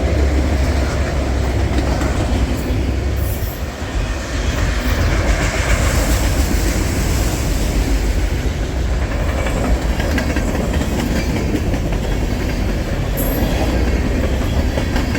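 Freight train cars rolling past close by: a loud, steady rumble with wheels clacking over the rail joints.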